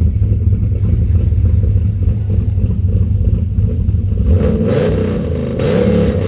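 Twin-turbocharged 5.3-litre aluminium LS V8 idling with a steady low rumble. Near the end come two short rushes of hiss while the engine note shifts in pitch.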